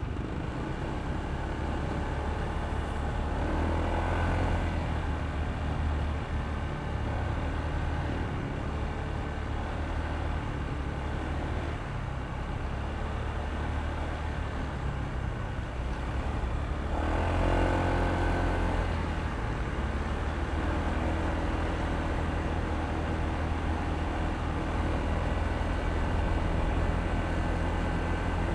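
Honda ADV160 scooter's single-cylinder engine running under way, with road and traffic noise; it swells louder about four seconds in and again for a couple of seconds about seventeen seconds in.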